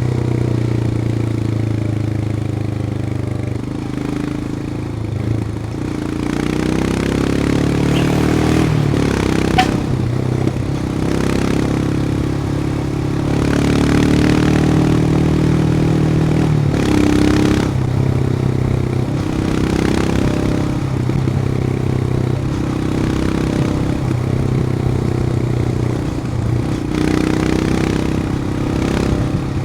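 Royal Enfield Himalayan's single-cylinder engine running while the motorcycle is ridden, its pitch rising and falling several times with throttle and gear changes.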